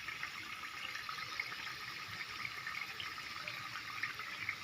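Balado chili sauce with eggs sizzling in a frying pan: a steady hiss with small crackling pops.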